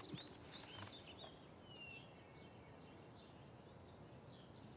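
Faint chirps of small birds over quiet outdoor ambience, with the tail of background music dying away in the first second.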